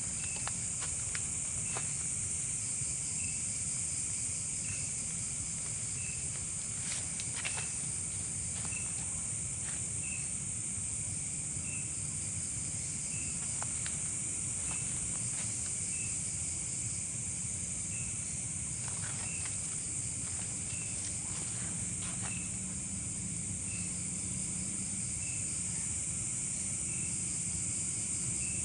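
Insect chorus: a steady high-pitched cricket trill, with a short chirp repeating about every second and a half and a few faint clicks.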